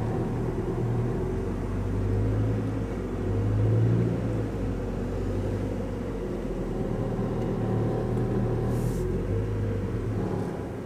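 Motor vehicle engine running steadily, a low even hum that swells slightly about four seconds in.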